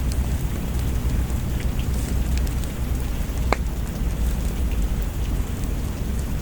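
Steady rain ambience with a deep, continuous low rumble underneath and scattered small ticks, one sharper click about halfway through.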